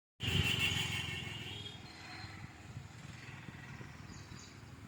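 Outdoor background noise, louder for about the first second and a half, with a few faint high chirps near the end.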